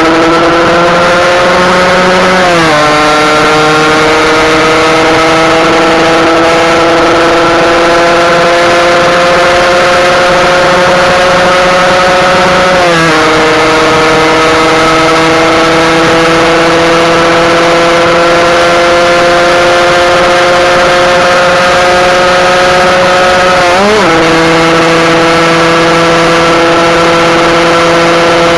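Husqvarna SM 125 two-stroke single-cylinder engine under hard acceleration on the road, its pitch climbing slowly in each gear, with three upshifts where the pitch drops sharply: near the start, about halfway and near the end.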